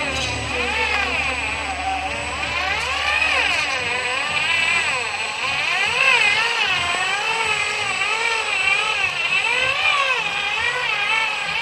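Logging truck's engine running under load, its pitch rising and falling again and again, about once a second, as the revs swing.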